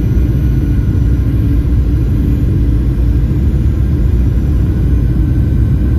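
Steady in-flight cabin noise of an airliner: an even, deep rumble of engines and airflow, with faint steady hums above it.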